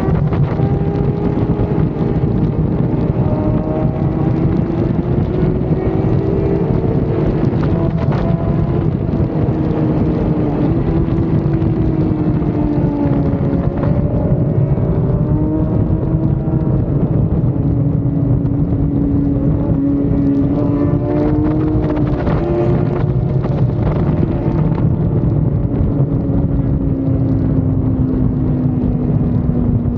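Motorcycle engine running under way, its pitch rising and falling slowly as it speeds up and slows, under heavy wind noise on the microphone.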